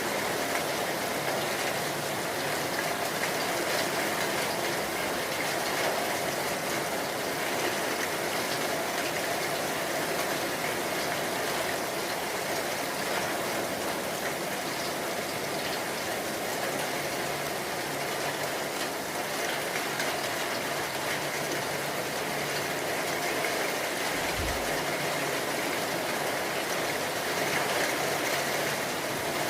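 Rain falling steadily: an even hiss of rain with a faint low hum beneath it, and one brief low thump about 24 seconds in.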